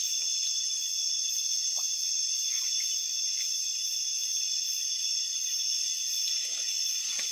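Chorus of night insects such as crickets, a steady high trilling made of several unbroken pitches.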